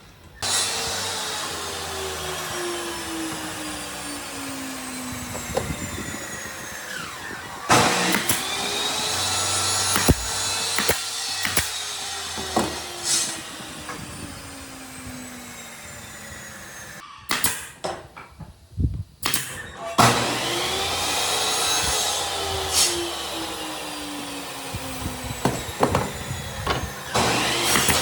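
Electric power tool motor running on wood in long passes, its pitch sagging slowly and then recovering. It breaks off with a few sharp knocks about two-thirds of the way through, then starts again.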